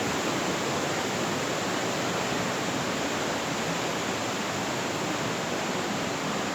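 Steady rush of fast-flowing river water, an even unbroken roar.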